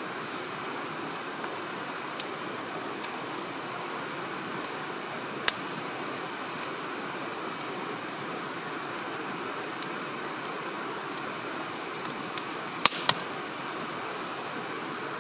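Wood fire in a firewood grill crackling, with scattered sharp pops and a loudest cluster of pops about 13 seconds in, over a steady rushing hiss.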